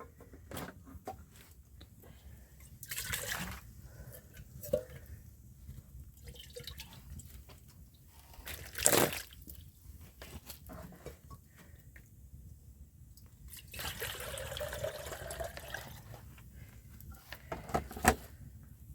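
Water pouring and dripping, among scattered light knocks, with a short loud burst about nine seconds in and a longer pour about fourteen seconds in.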